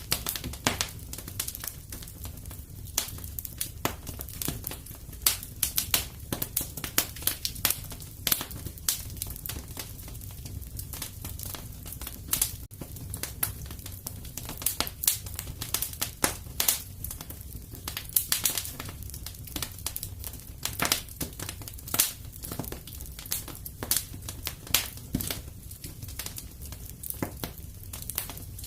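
Fireplace fire crackling: irregular sharp pops and snaps, often several a second, over a low steady rumble.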